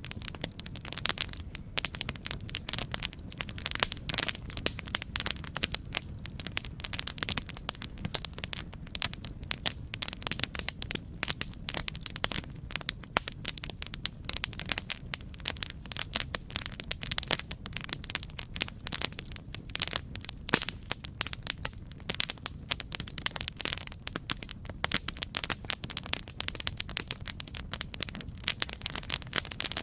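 Campfire burning with dense, irregular crackles and pops over a steady low rumble.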